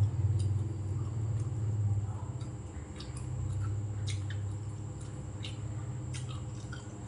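A person chewing food with the mouth open, with wet smacking and frequent small clicks. Under it runs a low hum that swells and fades and is the loudest sound.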